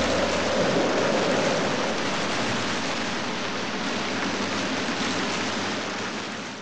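Steady rushing-water ambience, an even hiss of running water that fades out near the end.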